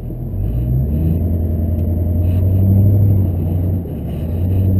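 Chevrolet Duramax LB7 6.6-litre V8 turbodiesel in a pickup pulling under throttle. The engine note steps up about half a second in and holds, eases off briefly near four seconds in, then climbs again, as if shifting up a gear.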